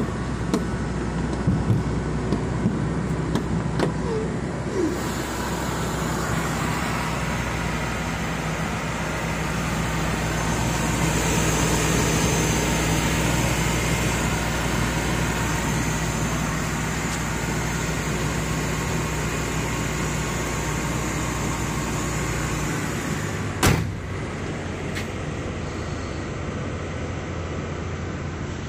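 2010 Mercedes-Benz CL 550's 5.5-litre V8 idling steadily, heard through the open hood with its whir and hiss. Near the end a single sharp thump, the hood being shut, after which the idle is quieter and duller.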